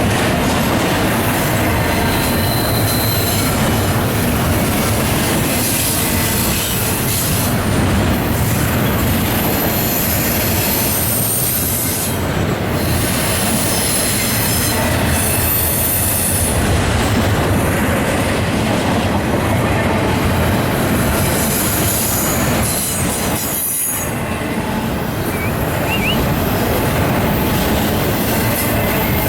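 Norfolk Southern intermodal freight train rolling past, a steady rumble of steel wheels on rail, with high wheel squeal coming and going.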